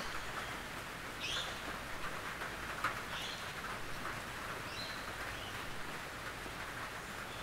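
Steady rain falling on a tin roof, an even hiss of drops with one sharper drop striking about three seconds in. A few short high chirps sound over it.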